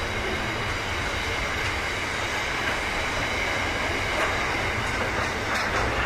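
Container wagons of a long freight train rolling steadily past, with the continuous noise of wheels on rail and a faint steady high ringing from the wheels.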